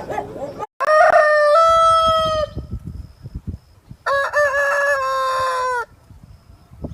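Rooster crowing twice, each crow a long call of about one and a half to two seconds that steps up in pitch and then holds.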